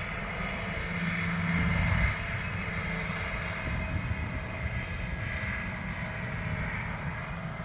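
Farm tractor engine running steadily as it goes by, loudest about two seconds in.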